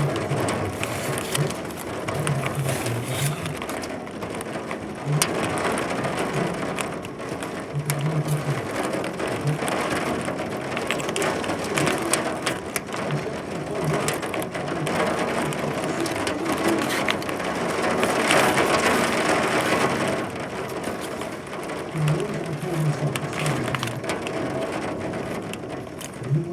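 Heavy rain drumming on a hard surface: a dense, steady hiss packed with sharp ticks, swelling a little around the middle.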